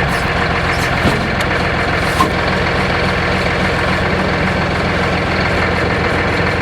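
An engine running steadily at an even idle, with a couple of light knocks about one and two seconds in.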